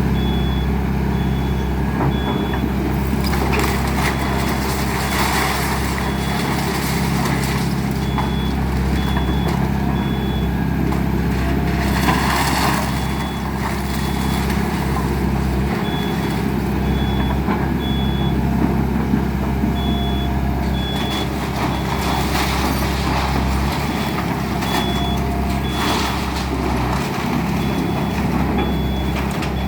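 Excavator's diesel engine running steadily under load, with a high warning alarm beeping repeatedly on and off. Short bursts of crunching noise break in several times, the loudest about halfway through.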